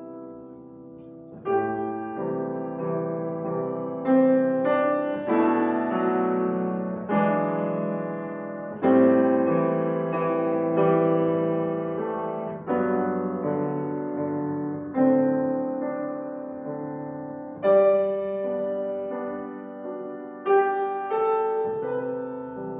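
Piano playing a slow, chordal classical piece: chords struck every second or two and left to fade, quiet at first, then louder from about a second and a half in.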